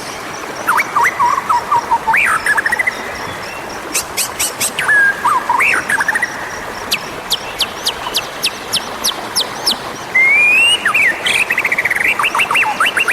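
White-rumped shama (murai batu) singing: varied whistled phrases that slide up and down, mixed with quick trills and runs of sharp ticking notes.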